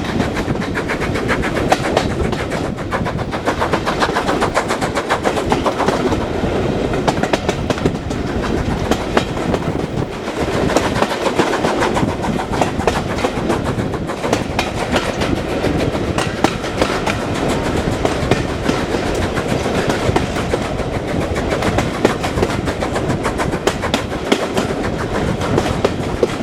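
Train running along the track: a steady rumble with many sharp clicks and clatters of the wheels over the rails.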